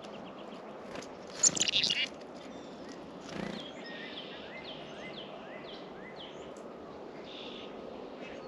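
Wild songbirds calling around a feeder over a steady outdoor hiss. A loud, rapid chattering call comes about a second and a half in, then a run of short, evenly repeated whistled notes.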